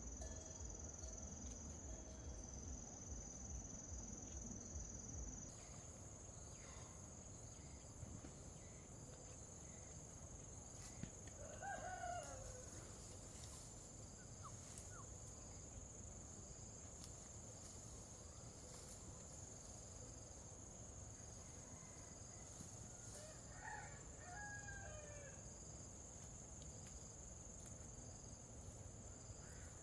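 A rooster crowing faintly twice, about twelve seconds in and again near twenty-four seconds, over a steady high-pitched drone of insects.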